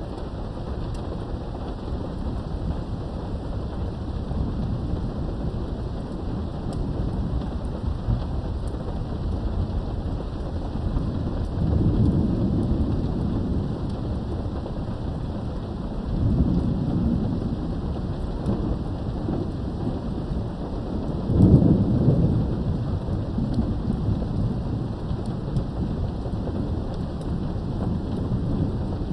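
Steady rain heard from behind a window, with rumbles of thunder swelling three times, the loudest about two-thirds of the way through.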